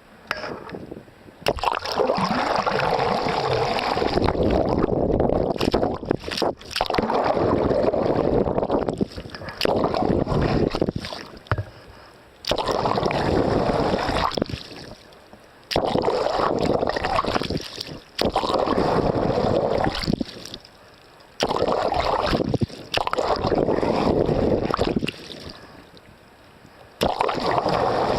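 Water rushing and splashing along a sailboat's hull in repeated surges, each a second or a few seconds long, with brief lulls between.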